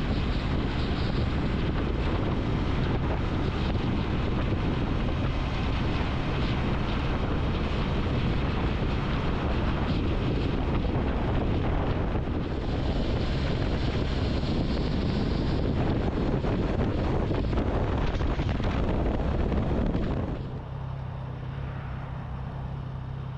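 Wind rushing over the microphone and engine noise of a Triumph motorcycle being ridden at speed. About 20 seconds in it drops to a quieter, steady low engine drone as the bike slows.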